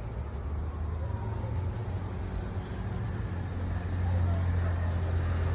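Steady low rumble of a moving vehicle, growing louder about four seconds in.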